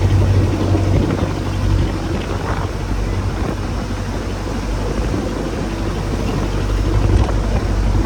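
A boat's engine running steadily with a low hum, under wind and sea noise.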